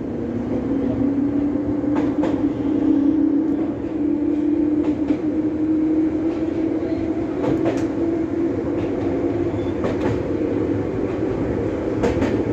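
Electric train car running, heard from inside: a steady motor and gear hum that rises slightly in pitch over the first few seconds as the train picks up speed, then holds. The wheels click over rail joints every few seconds, sometimes in quick pairs.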